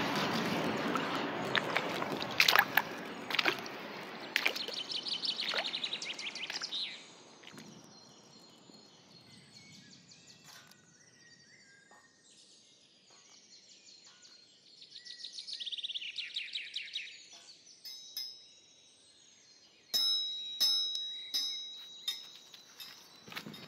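Birds chirping and trilling over a rushing noise that fades away in the first several seconds. Near the end come a few sharp, high ringing strikes.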